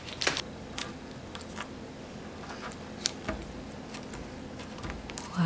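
Homemade clear slime being squeezed and handled close up: scattered faint sticky clicks and small squishes.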